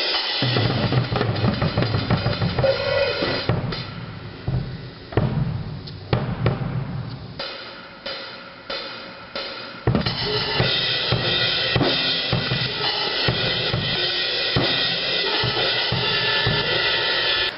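Drum kit being played, bass drum and snare hits under cymbals. The playing thins to sparser, quieter hits about four seconds in, then comes back full with cymbal wash about ten seconds in.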